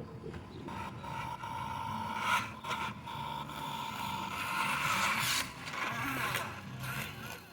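Radio-controlled model truck's electric motor and gears whining steadily as it drives, with scraping and a few sharp knocks; the whine fades near the end.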